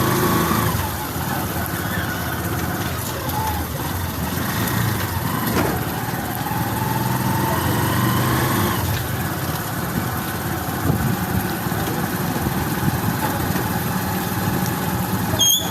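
A vehicle engine running steadily, with road traffic noise.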